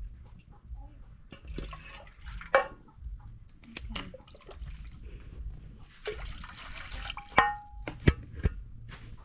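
Water pouring and splashing in two spells, with several sharp knocks and a short ringing clink.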